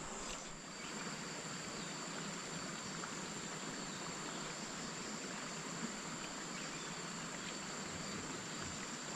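Steady outdoor ambience: insects droning in two steady high tones over an even rushing hiss.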